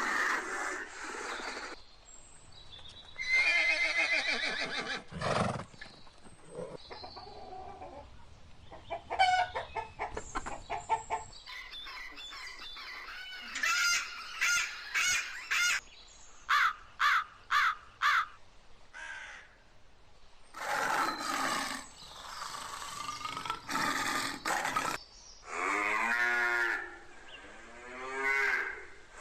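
A run of different animal calls one after another, separated by short gaps: pitched calls, a stretch of fast pulsing calls, a row of short repeated calls, then rising-and-falling calls near the end.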